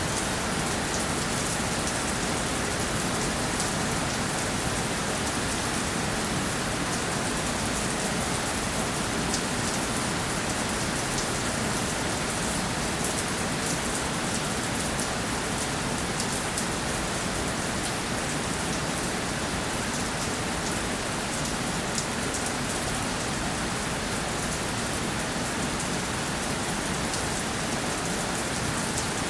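Steady rainfall: an even hiss of rain with many fine drop ticks, unchanging throughout.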